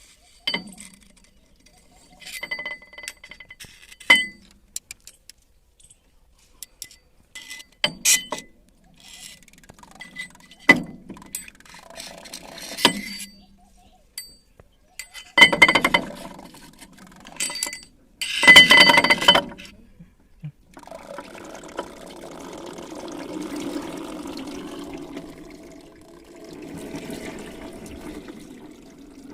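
Metal parts clinking and knocking against each other several times, each strike ringing briefly, the loudest around fifteen to nineteen seconds in. From about twenty-one seconds in, a steady rush of running liquid takes over.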